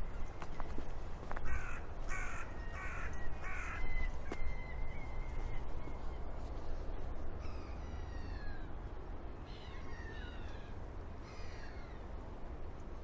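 A crow cawing: four harsh caws in quick succession, then a few falling calls later on, over a steady low rumble of wind.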